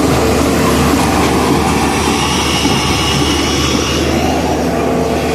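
Heavy diesel earth-moving machinery running steadily under load, a continuous low engine rumble with a faint high whine above it.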